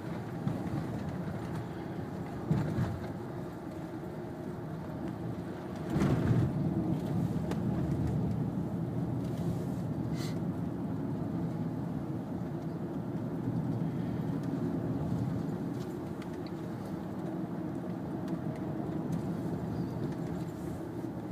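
Road noise heard from inside a moving minivan: a steady rumble of engine and tyres. There is a short knock about two and a half seconds in, and a brief louder surge about six seconds in.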